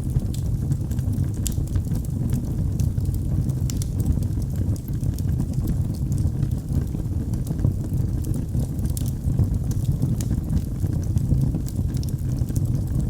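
Wood fire in a fireplace crackling, with frequent small sharp pops and snaps over a steady low rumble of the flames.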